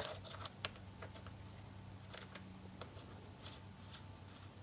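Scattered light clicks and taps of hands working on a battery chainsaw's chain tensioner and plastic side cover, with a sharper click right at the start and another just over half a second in. A faint steady hum runs underneath.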